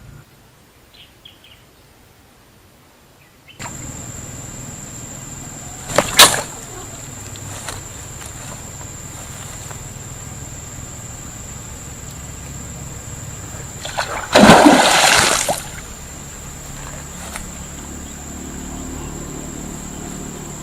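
Water splashing twice over a steady hiss: a short splash about six seconds in and a longer, louder one of about a second near the middle.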